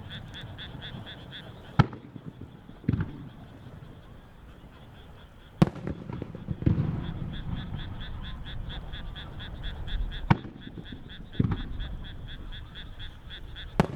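Japanese warimono aerial firework shells bursting: four sharp loud bangs, the first three each followed about a second later by a softer, duller boom. A fast, even pulsing chirp runs behind them, dropping out for a few seconds after the first bang.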